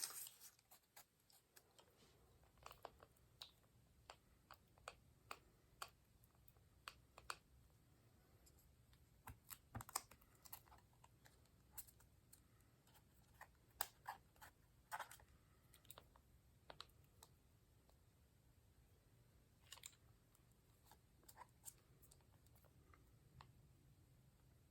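Faint, scattered light clicks and taps of paper and craft pieces being handled and pressed down on a work surface.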